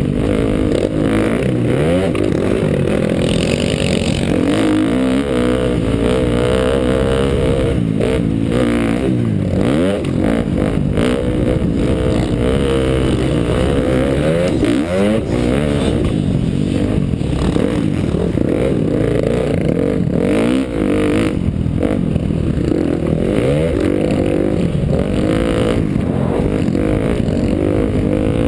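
KTM dirt bike engine being ridden around a motocross track, its pitch repeatedly rising and falling as the throttle is opened and closed.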